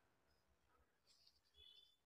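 Near silence: room tone, with only a very faint high tick or two near the end.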